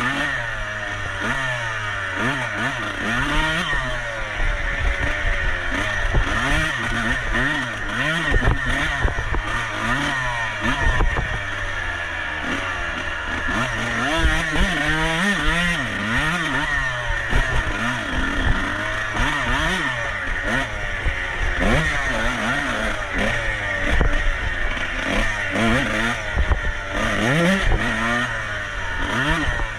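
Off-road racing motorcycle engine revving up and falling back again and again as the rider works the throttle and gears, with knocks and clatter from the bike over rough ground.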